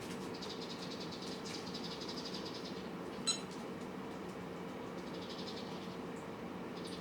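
Cats eating: two stretches of soft, rapid chewing or lapping sounds over a steady low electrical hum, with one short sharp click a little before the middle.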